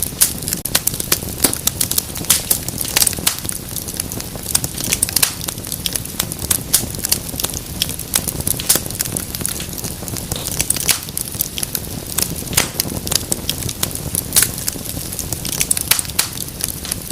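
Wood fire burning with constant crackling and frequent sharp pops over a low steady rumble.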